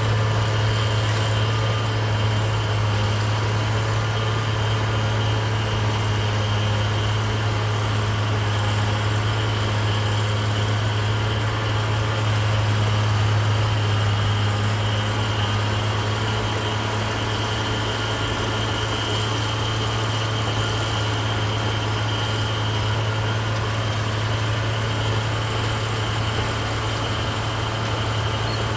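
Heavy diesel engine of an earthmoving machine running steadily at constant speed: an unchanging low drone with no revving.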